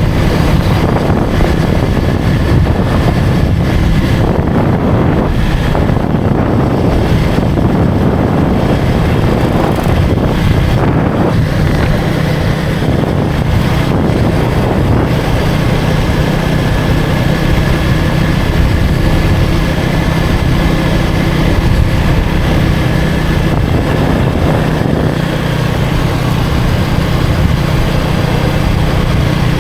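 Motorcycle engine running at a fairly steady note while riding in traffic, with wind buffeting the microphone.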